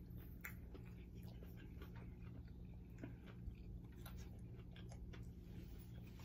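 People chewing and biting fried chicken wings, with scattered soft crunches and mouth clicks over a steady low hum.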